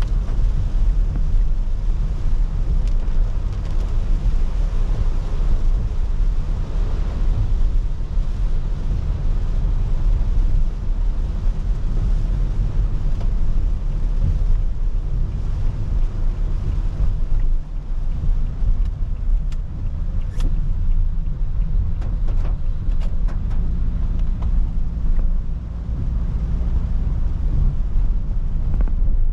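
Car driving in the rain, heard from inside: a steady low rumble of road and tyre noise under an even hiss of rain, with a few sharp ticks in the second half.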